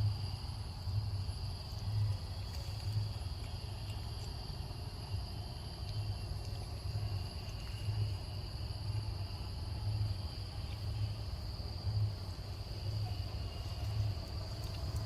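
Insects calling in a steady high-pitched drone, with a low rumble underneath that swells about once a second.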